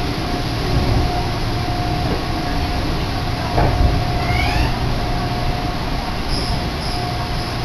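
Interior noise of a Meitetsu Mikawa Line commuter train car: a steady low rumble under a constant hum, with a short rising whine about four and a half seconds in.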